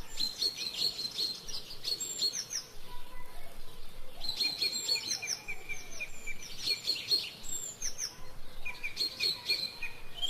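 Songbirds singing: short phrases of quick, high chirps that repeat every couple of seconds.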